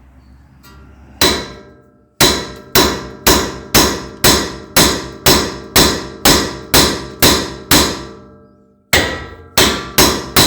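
Ball peen hammer striking the steering knuckle by the upper ball joint to shock the joint's taper loose: a single ringing metal blow, then a steady run of about a dozen blows roughly two a second. After a short pause the blows resume faster near the end.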